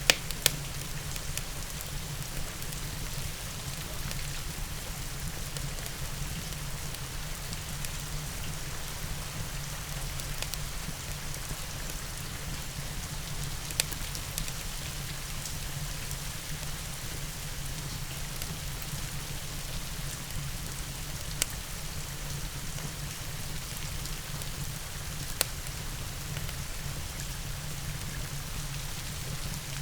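Steady rain with a crackling fireplace, broken by a few sharp pops: two right at the start and three more spread across the rest.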